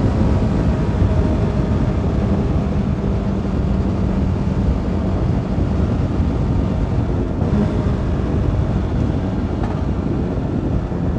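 Heavy wind rush on a helmet microphone at riding speed, nearly drowning out a CFMoto 300NK's single-cylinder engine, which holds a steady note underneath.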